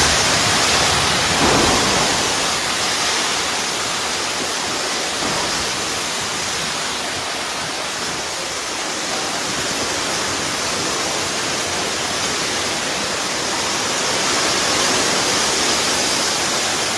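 Heavy rainstorm with hail: a dense, steady hiss of falling rain and hail.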